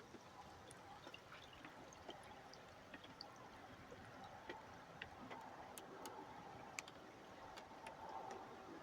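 Near silence: faint scattered ticks and clicks over a low background hiss.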